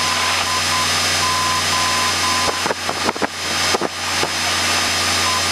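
Aircraft radio receiving a garbled transmission on ground frequency: a loud steady hum and hiss with a broken whistle-like tone and a few clicks, no words. It starts and stops abruptly, like a keyed carrier, and this is the unreadable ground-frequency reception the pilot blames on his radio.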